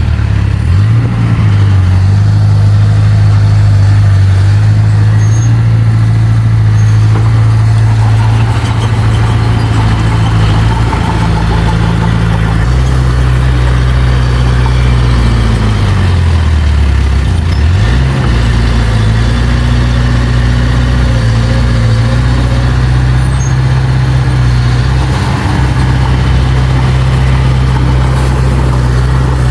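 Diesel engine of heavy earthmoving machinery running at steady revs, with a low, loud drone. The engine note shifts lower about twelve seconds in, dips and climbs back a few seconds later, then holds steady as the machine works.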